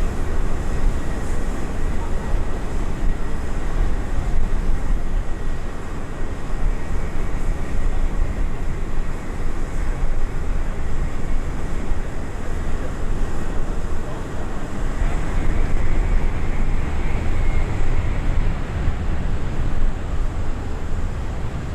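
Jet engine noise from a Scoot Boeing 787-9 arriving, a steady loud rumble heaviest in the deep bass.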